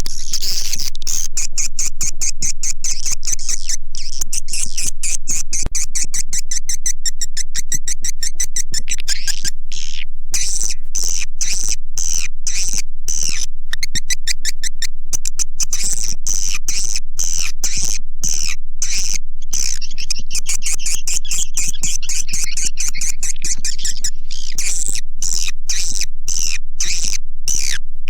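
Swiftlet calls: a dense, continuous run of rapid chirps and clicking twitters, repeating many times a second. This is a swiftlet call-and-lure track of the kind played to draw edible-nest swiftlets into a nesting house.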